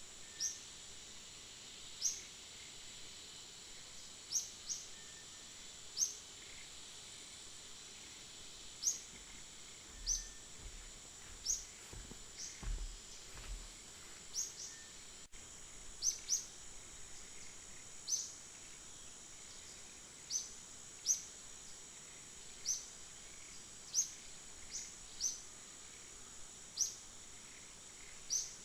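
Outdoor ambience: a steady high insect drone under short, sharp, high bird chirps repeating about every one to two seconds. A few low thumps come about halfway through.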